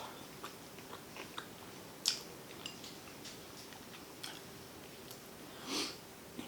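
Close-miked mouth sounds of a person eating seafood: soft chewing and biting with scattered small clicks. There is a sharper click about two seconds in and a longer wet mouth sound near the end, over a faint steady hum.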